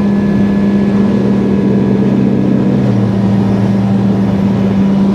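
Sport motorcycle with its exhaust baffle removed, running loud at a steady engine speed, with a slight drop in engine note about three seconds in, heard from the rider's helmet camera.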